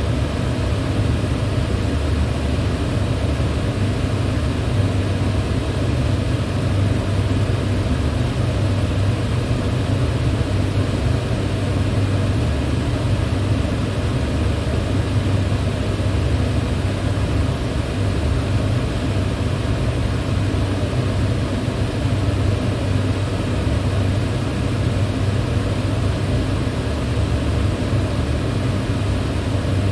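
Electric fan running steadily at constant speed: a low, even hum of the motor and blades with an airy hiss over it, unchanging throughout.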